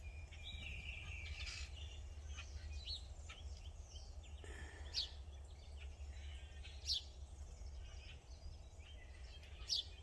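Backyard birds chirping and calling, with a few sharper high calls about five, seven and ten seconds in, over a steady low outdoor rumble.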